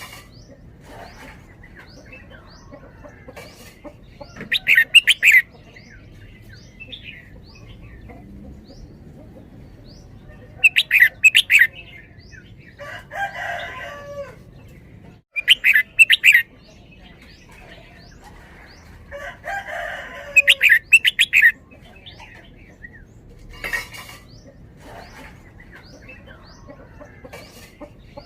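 Red-whiskered bulbul singing four loud, short song phrases about five seconds apart, with soft chirps between them. Twice a lower, longer call from another bird comes in between the phrases.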